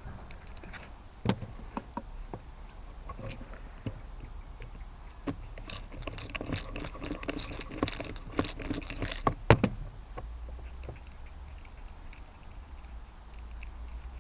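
Screwdriver and small metal parts of a Honda CG125 carburettor being handled as a cover's screws are taken out: scattered metallic clicks and taps, with a busier stretch of clinking and scraping in the middle that ends in one sharp tap.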